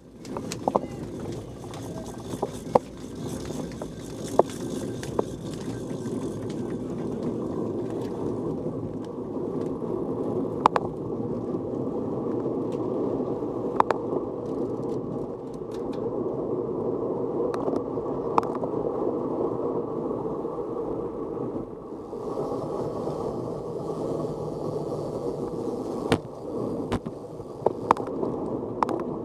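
Steady, muffled rumble of a bicycle being ridden: tyre and wind noise, with sharp knocks and rattles every few seconds.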